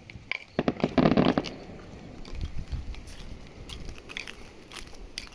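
Aerial fireworks crackling: a dense run of sharp pops about a second in, then scattered crackles.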